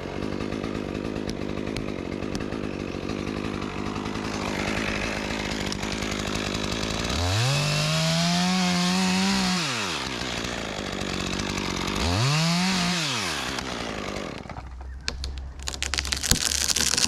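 Two-stroke chainsaw running at low speed, then revved up and let down twice while cutting through the trunk behind a felling wedge. Near the end the saw drops away and a quick run of sharp cracks and snaps follows.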